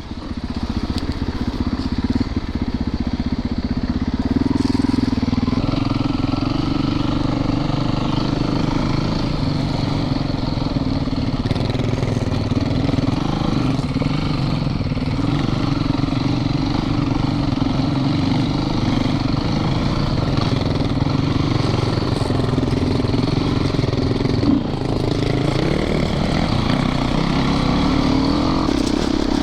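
Dirt bike engine running steadily while riding, its pitch rising and falling a little with the throttle, with one sharp knock about 25 seconds in.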